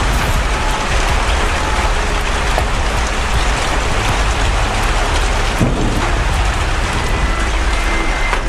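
Heavy rainstorm: a loud, steady hiss of pouring rain with a deep rumble underneath.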